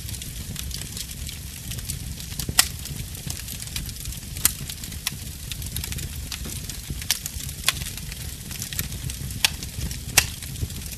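Wood fire crackling in a fireplace: a steady low rumble of flames under a fine hissing crackle, with about six sharp pops, the loudest about two and a half seconds in and near the end.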